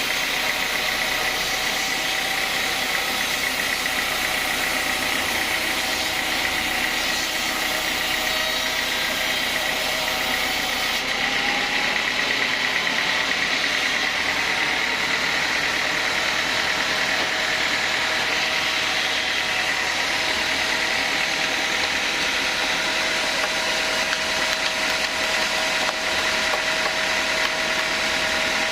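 Sawmill band saw running steadily: its motor and blade keep up a continuous mechanical drone with a steady high tone over it.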